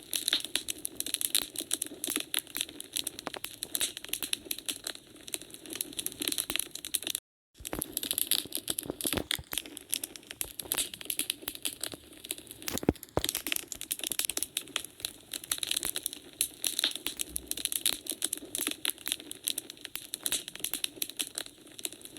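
Wood fire crackling in a fireplace: a dense, irregular run of small snaps and pops, with one sharper pop about thirteen seconds in. The sound cuts out completely for a moment about seven seconds in.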